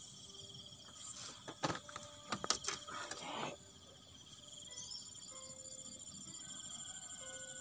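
Insects chirring steadily in a fast pulsing trill at two high pitches, with a cluster of sharp clicks and knocks in the first half.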